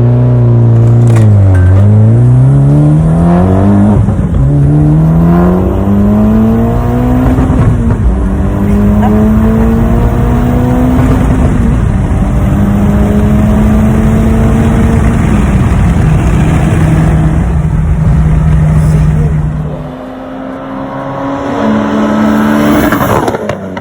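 Mitsubishi Lancer Evolution X's turbocharged 2.0-litre four-cylinder, with a cast investment exhaust manifold, accelerating hard through the gears. The engine note climbs and drops back at each upshift, then holds steady. It eases off and goes quieter near the end.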